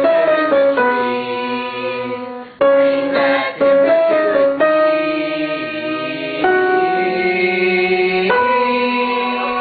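Keyboard playing a slow line of long held notes, changing about every two seconds, with voices singing along: the harmony part of a song being learned at rehearsal.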